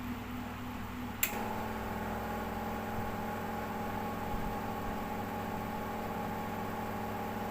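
A switch click about a second in, then a ceiling fan running with a steady electrical hum rich in overtones: the humming a fan makes when fed from a UPS/IPS inverter.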